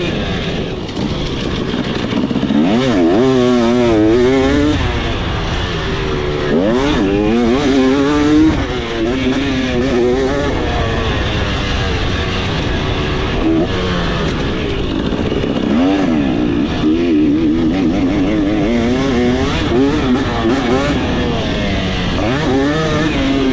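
KTM 300SX single-cylinder two-stroke dirt bike engine under hard throttle, its pitch climbing in several rising sweeps and dropping back as it revs out and comes off the throttle.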